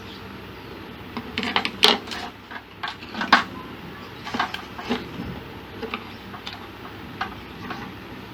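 Irregular light clicks and clatters of small parts and tools being handled on a workbench, the sharpest about two and three and a half seconds in.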